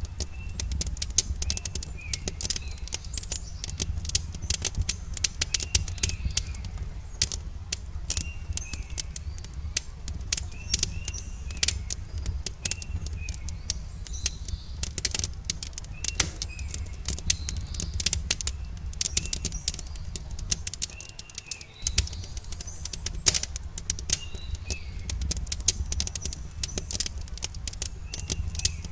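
Campfire crackling with frequent sharp pops and snaps over a steady low rumble. Small birds chirp in short calls every second or two.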